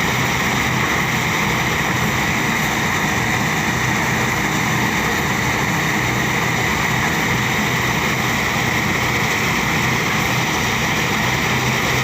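Engine-driven rice threshing machine running steadily, a constant engine hum under a loud hiss of threshing.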